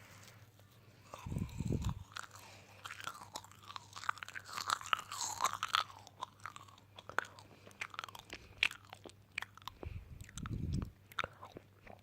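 Close-miked ASMR crunching and chewing: dense sharp crackles, with two short low thuds, one about a second in and one near the end.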